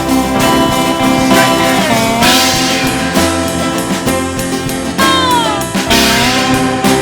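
Band playing an instrumental passage between sung lines: a lead guitar line with bent, sliding notes over rhythm guitar and drums.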